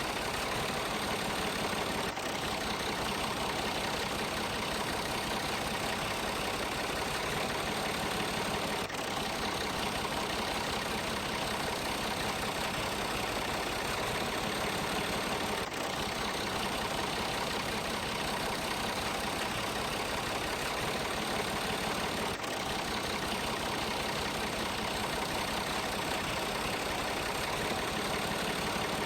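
Tractor engine running steadily at idle, with a brief dropout about every seven seconds.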